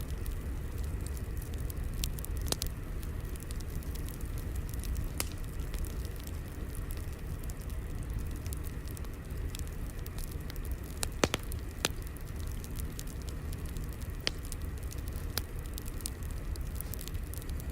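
Crackling fire: a steady low rumble with scattered sharp pops and snaps, two louder snaps a little past the middle.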